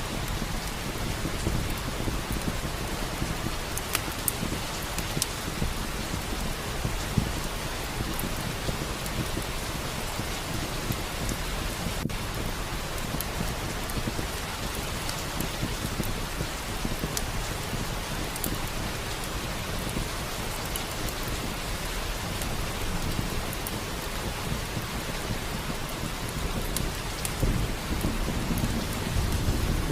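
Steady rain with rolling thunder: low rumbles swell in the first moment and again near the end. A few sharp crackles are scattered through it.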